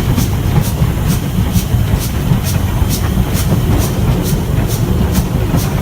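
Stanier 8F 2-8-0 steam locomotive on the move: a steady heavy rumble with a regular beat of short hissing chuffs, a little over two a second.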